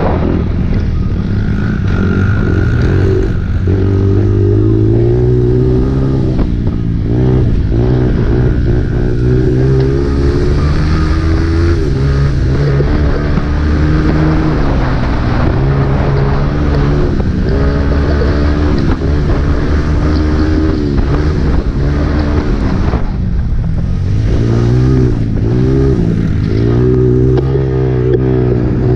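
Honda CRF dirt bike's single-cylinder four-stroke engine revving hard on a motocross track. Its pitch climbs and drops over and over as the rider accelerates, shifts and backs off, with no break in the loud engine note.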